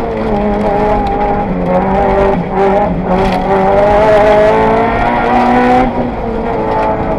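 Mitsubishi Lancer Evo 7's turbocharged four-cylinder engine at full throttle, heard from inside the cabin. Its pitch climbs and then drops about three times as it is driven through the gears and corners.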